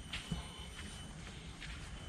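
A few soft footsteps on the forest floor at a slow walking pace, over a faint steady high-pitched tone.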